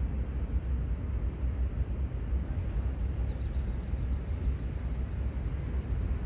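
Outdoor seaside ambience: a steady low rumble, with a small bird repeating short series of quick high chirps and a longer trill about halfway through.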